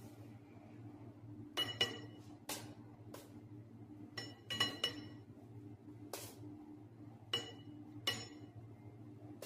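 A series of sharp clinks and taps of kitchen utensils against dishes, about a dozen at irregular intervals, some ringing briefly, over a steady low hum.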